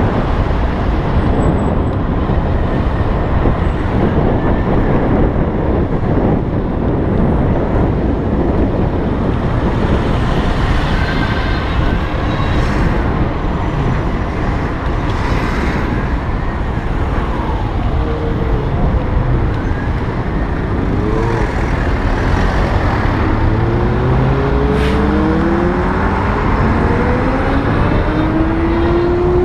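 Steady, loud rush of wind and road noise from riding an electric bike through traffic. Several rising whines come in the second half.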